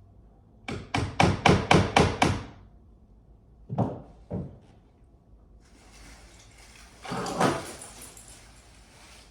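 A quick run of about seven sharp knocks, then two more knocks, followed by a steady hiss that swells briefly before easing.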